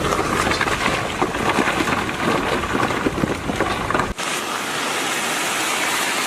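Steady rushing noise with wind buffeting the microphone. The low rumble cuts off abruptly about four seconds in, leaving an even hiss.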